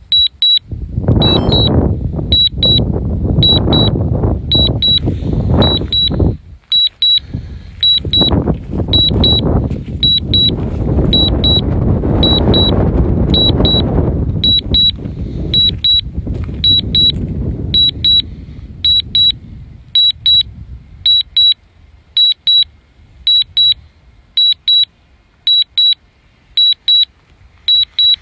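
Drone remote controller beeping a warning in quick pairs, about one pair a second, steadily. Gusts of strong wind buffet the microphone over the first two-thirds, then die down.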